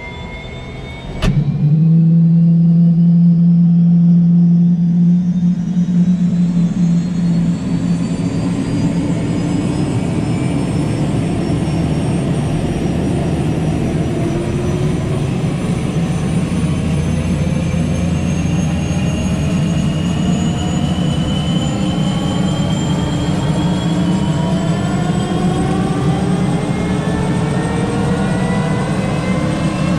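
MBB Bo 105 helicopter's twin turboshaft engines and rotor running, starting loud about a second in, with a whine whose pitch rises slowly and steadily throughout as the engines and rotor come up to speed.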